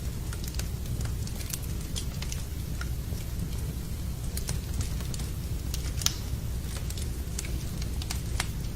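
Wood fire crackling in a fireplace: irregular sharp pops and snaps, the loudest about six seconds in, over a steady low rushing noise of rain.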